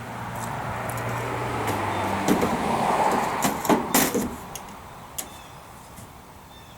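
Metal clicks and knocks from a pontoon boat's aluminum side door being worked on its new hinge, clustered in the middle. Under them is a rush of noise that swells and then fades away.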